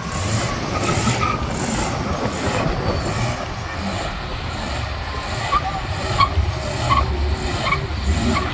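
A car engine rumbling, with a string of short, high squeaks repeating about every two-thirds of a second through the second half.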